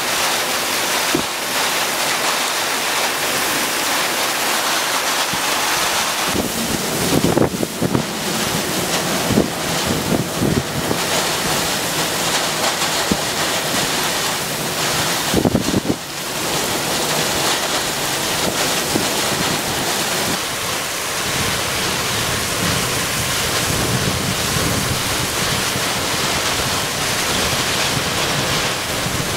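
Storm wind buffeting the microphone over a steady rushing of wind and rough sea. Hard gusts hit a few times about a quarter of the way through, and once more just past the halfway point.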